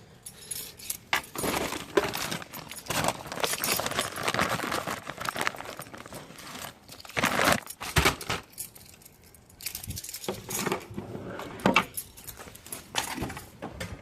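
Metal hand tools and small metal parts clinking, rattling and scraping in a car's engine bay in irregular bursts, as a vacuum hose and its clamp are worked into place.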